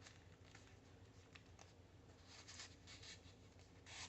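Faint rustling and light taps of paper tags and cards being handled, in short scattered bursts, the loudest just before the end.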